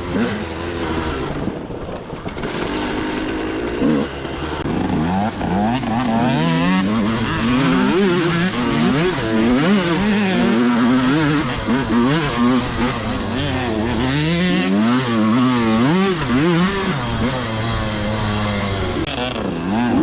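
Two-stroke dirt bike engine under way, revving up and down again and again as the throttle is worked, its pitch rising and falling, busier from about a third of the way in.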